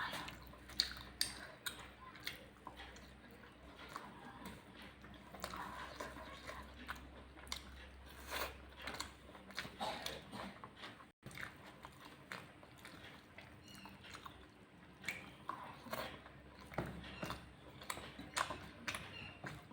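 A person chewing and eating a meal of rice and curries close to the microphone, with many irregular short wet mouth clicks and smacks. The sound cuts out for an instant about halfway through.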